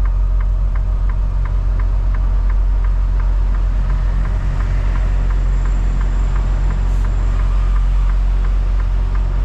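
Semi truck's diesel engine running with a steady low rumble heard from inside the cab, and a steady ticking at about three ticks a second over it.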